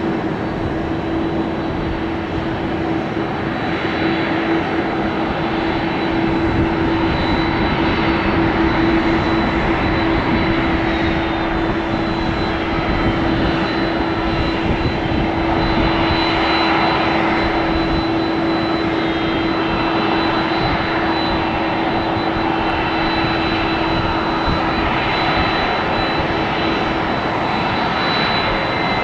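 Jet airliner engines running, a broad rush with a steady low tone and a steady high whine, swelling slightly about halfway through.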